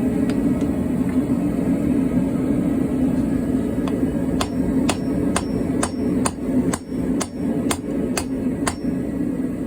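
Hammer blows on hot car spring steel at the anvil while forging a weeding tool: a run of about eleven sharp, ringing strikes, about two a second, starting about four seconds in. A steady low rumble runs under them throughout.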